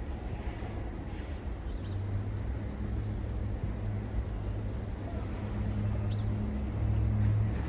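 A motor vehicle's engine running in the street: a steady low hum that sets in about two seconds in and grows louder toward the end, over a low outdoor rumble.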